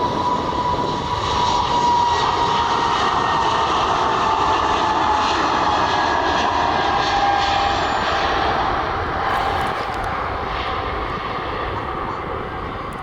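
An airliner's engines passing close by: a loud, steady rush with a whine that slowly drops in pitch, easing off toward the end as the aircraft moves away.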